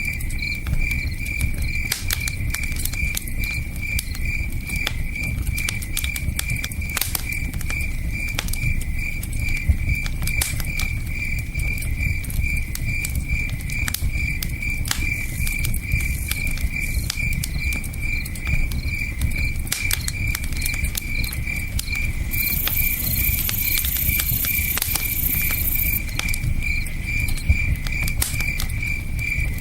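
Campfire crackling with scattered sharp pops, over a cricket's steady pulsing chirp and the low rush of a river. A few seconds of high hiss come in about three-quarters of the way through.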